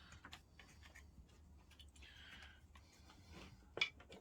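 Faint, scattered light ticks and a brief soft scrape from small handling of the biscuit jointer's sliding fence, with a sharper click near the end.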